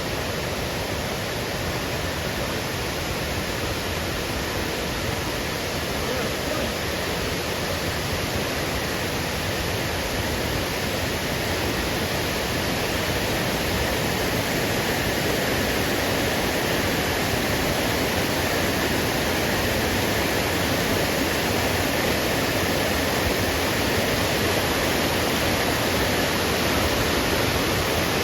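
Waterfall: a steady, dense rush of falling water, growing slowly louder.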